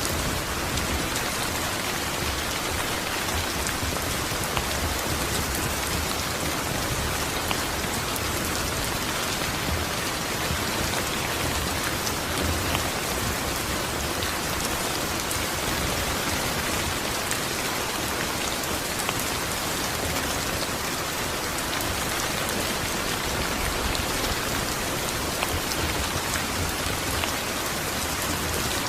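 Steady, even rain falling on a surface, a dense hiss of many small drops with no letup.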